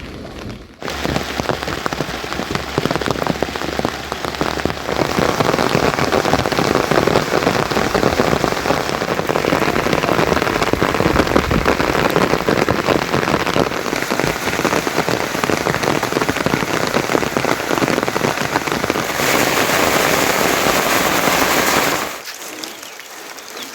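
Heavy monsoon rain pouring down and pattering on surfaces, a loud steady hiss that suddenly drops much quieter near the end.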